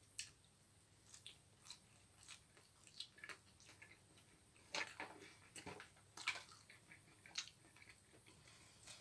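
A person chewing a mouthful of chicken and pasta salad, faint, with scattered soft clicks and taps, the loudest about five and six seconds in.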